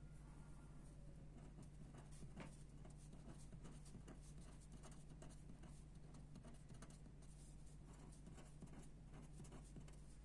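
Faint pencil sketching on paper: many short, quick scratching strokes, over a steady low hum.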